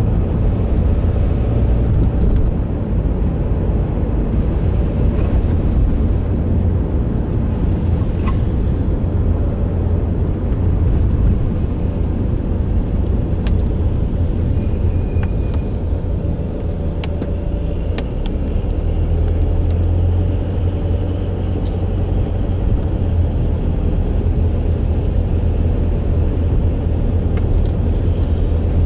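Steady low rumble of a car on the move, engine and road noise running evenly, with a few faint ticks over it.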